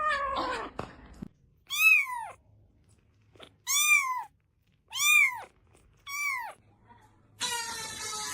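A cat meowing: a drawn-out call falling in pitch ends just under a second in, followed by four short meows about a second apart, each rising then falling. A harsher, noisier sound starts near the end.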